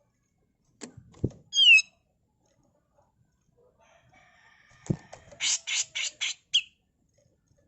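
Grey-cheeked bulbul (cucak jenggot) calling: a quick run of short, falling whistled notes, then a rapid series of four harsh, raspy notes ending in one brief whistle. Two dull knocks come before each part.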